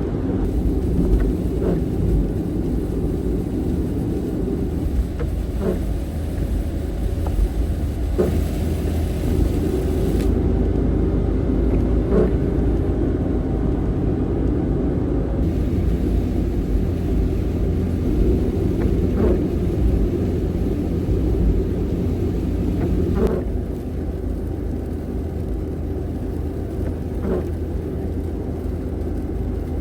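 Kei van driving: a steady low engine and road rumble, with occasional small knocks.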